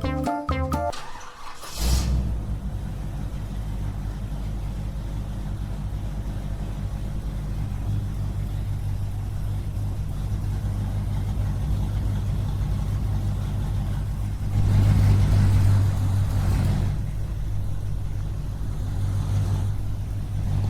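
Small engine running steadily, rising in level for about two seconds roughly two-thirds of the way through, then settling back.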